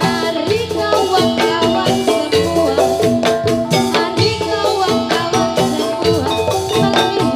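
Live Javanese gamelan playing jathilan dance accompaniment: ringing metallophones over drums in a steady, continuous rhythm.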